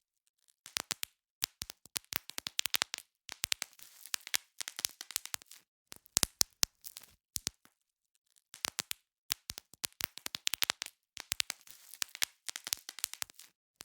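Bubble wrap being popped: quick runs of sharp pops with the plastic crinkling between them, broken by short pauses, the longest near the middle.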